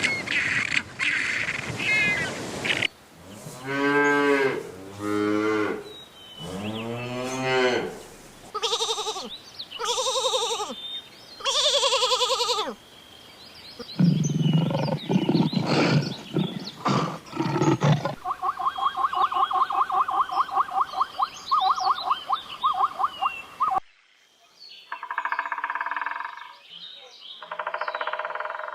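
A run of different farm and wild animal calls played one after another, among them cattle mooing: long calls whose pitch bends, then shorter repeated calls, a stretch of low rhythmic pulses, a fast rattling trill, and more short calls near the end.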